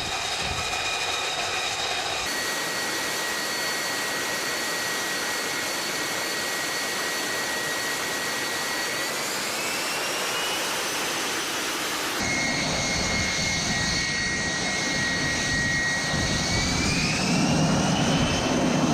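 Jet engine running with a steady high whine over a rushing hiss. Its pitch rises twice as it spools up, and a low rumble builds near the end. The sound changes abruptly twice, as between edited shots.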